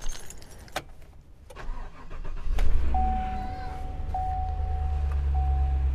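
Chevrolet Suburban's V8 engine cranking briefly and catching about two and a half seconds in on a newly fitted battery, flaring up and then settling into a steady idle. An electronic chime tone sounds in repeated stretches over the idle.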